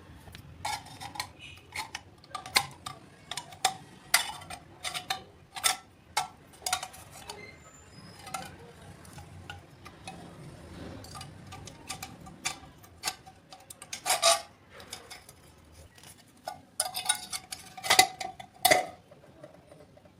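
Irregular light clicks and clinks of small hard objects being handled and knocked together, some with a brief ring. Two louder clusters come about two-thirds of the way through and near the end.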